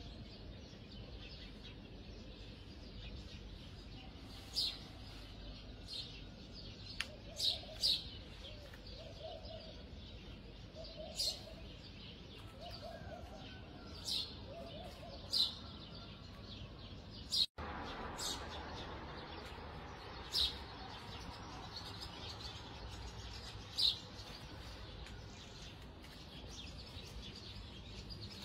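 A small bird chirping: about a dozen short, sharp single chirps, spaced irregularly a second or more apart, over a faint steady low background hum.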